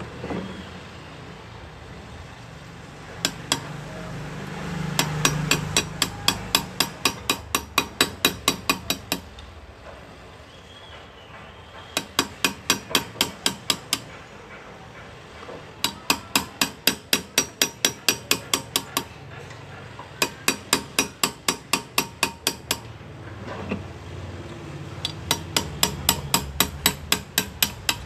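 Hand engraving with hammer and chisel: a small hammer tapping a graver into metal in runs of quick, sharp, even taps, about five a second, with short pauses between runs.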